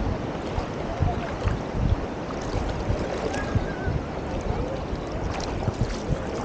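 Wind buffeting the microphone in uneven low thumps over a steady wash of beach surf, with faint voices in the background.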